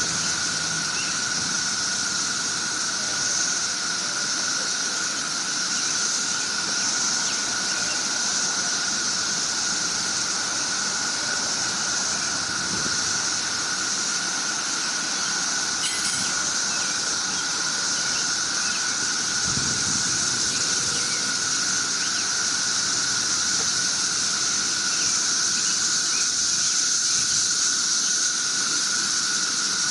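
Chorus of many cicadas droning steadily, a continuous high buzz that swells and eases slightly.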